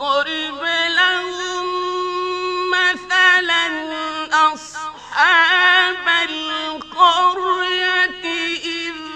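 A man's voice chanting Quran recitation in a melodic tajweed style: long held notes with wavering ornaments, broken by short pauses.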